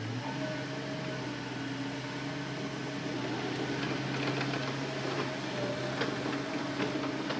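Hitachi Zaxis excavator's diesel engine and hydraulics running with a steady hum, its engine speed stepping up slightly near the start. A few light knocks are heard in the second half.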